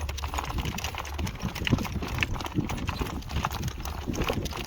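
Hoofbeats of a young horse being ridden along a road: a steady run of sharp clip-clop knocks.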